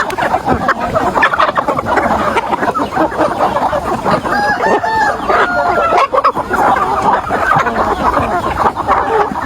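A flock of chickens clucking continuously, with a few longer, drawn-out calls about halfway through.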